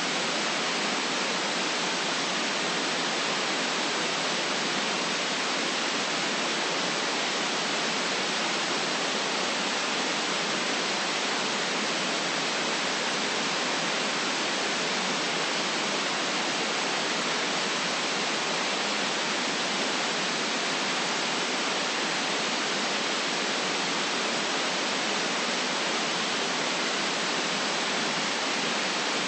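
Steady electronic white noise: an even, unchanging hiss, brightest in the upper range and with little bass.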